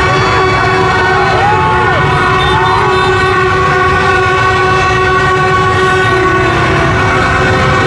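A dense blare of many horns held at once, several steady overlapping tones, over a low rumble of crowd and motorbike traffic, with a few sliding shouts or whistles near the start.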